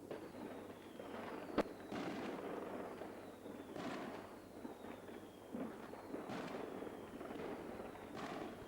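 Fireworks going off: a steady crackle of overlapping bursts and pops, with one sharp, loud bang about a second and a half in.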